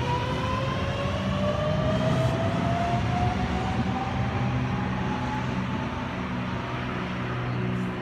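Sydney Trains Millennium electric train (set M34) accelerating away from the platform, its traction motors whining in a rising pitch that fades out about halfway through, over a steady rumble of wheels on rail.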